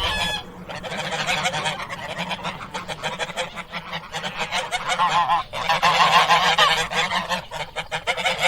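A flock of geese honking, many calls overlapping continuously.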